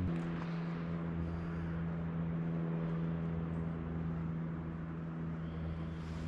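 Steady low hum of an engine, its pitch dropping slightly at the start and then holding even.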